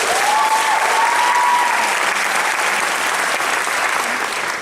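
Audience applauding loudly, with one long, high call or whistle rising above the clapping in the first couple of seconds. The applause dies down near the end.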